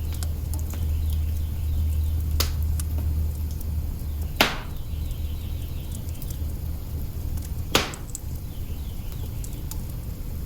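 Wood fire burning in an open hearth: a low steady rumble of flame with small ticks, broken by three sharp crackling pops, the loudest about four seconds in.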